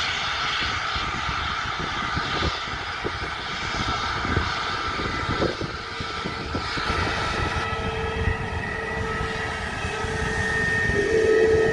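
Jet airliner engines running, a steady roar with a faint whine, growing louder near the end as a held tone comes up.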